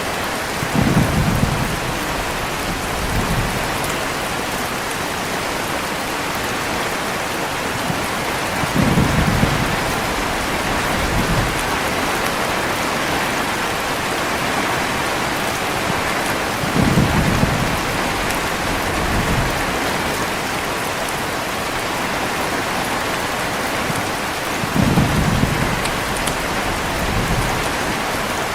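Heavy, steady rain with rumbles of thunder. A deep rumble comes four times, about every eight seconds, each followed by a weaker one.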